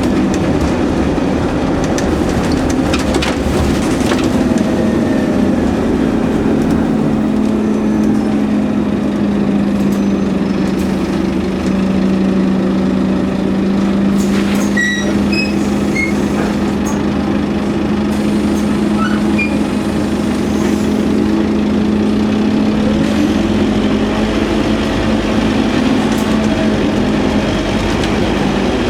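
Scania N230UD OmniCity double-decker bus on the move, its five-cylinder diesel engine running at one steady pitch for most of the stretch over a bed of road noise, with a few light rattles and clicks about halfway through.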